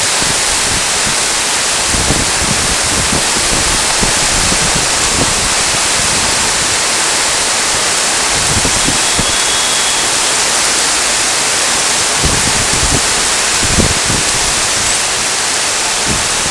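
Heavy rain falling in a steady, loud hiss, with scattered low thuds of drops landing close by.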